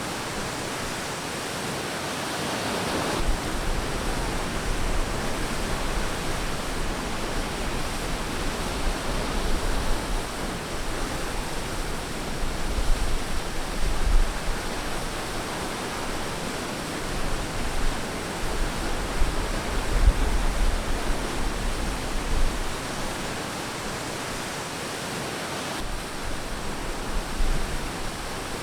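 Ocean waves breaking and washing onto a beach: a steady rush of surf that swells and eases, with one wave surging louder about two to three seconds in.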